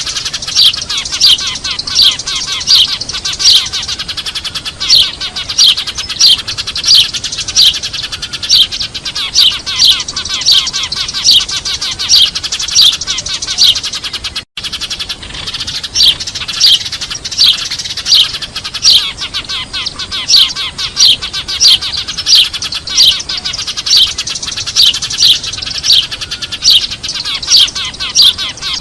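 Eurasian tree sparrows chattering in a noisy flock: a dense bed of chirps with loud, sharp chirps repeating about once or twice a second. This is a lure call for trapping sparrows, and it cuts out for an instant about halfway through.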